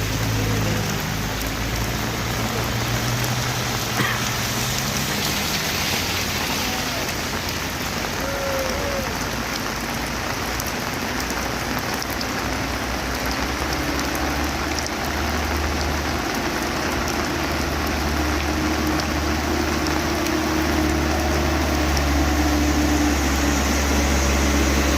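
Heavy engine running steadily at low revs under a constant hiss of noise that sounds like rain. The engine grows a little louder over the second half.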